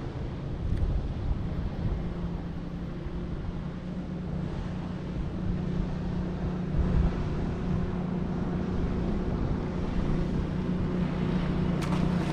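Boat motor running steadily as the fishing boat moves, a constant low engine hum, with wind buffeting the microphone.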